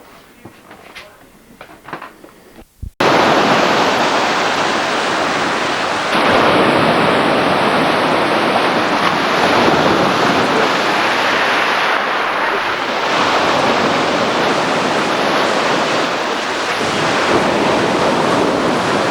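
Sea waves washing onto the shore: a loud, steady rush that swells and eases every few seconds. It starts abruptly about three seconds in, after a few faint clicks.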